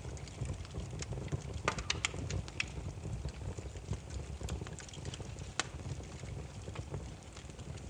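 Burning firewood crackling: irregular sharp pops and snaps over a steady low rumble of the flames, with a quick cluster of snaps about two seconds in.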